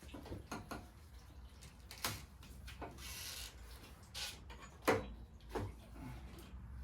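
Scattered clicks and knocks of metal parts and tools being handled, the loudest about five seconds in, with a short hiss around three seconds in.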